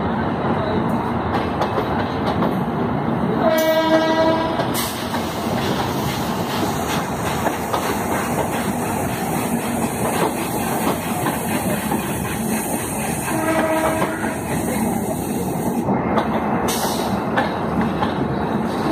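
Coaches of the Taj Express running along the platform with a steady rumble and rattle of wheels on rail. A locomotive horn sounds twice: once for about a second, about three and a half seconds in, and again more briefly about thirteen seconds in.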